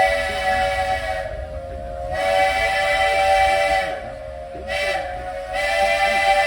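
Steam locomotive whistle on the Walt Disney World Railroad sounding a chord of several notes in repeated blasts. A blast that began before ends about a second in. Then come a long blast, a short one and another long one, the long-long-short-long pattern of a grade-crossing signal.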